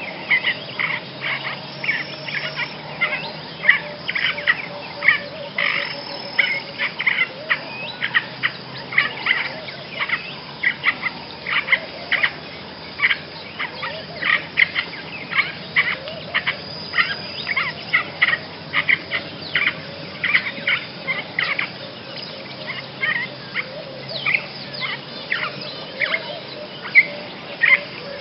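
Basra reed warbler singing: a continuous song of short, quick notes, several each second, without a break.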